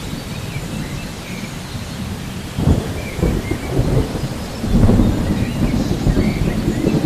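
Thunderstorm ambience: steady rain with low rolling thunder, swelling louder about two and a half seconds in and again near five seconds.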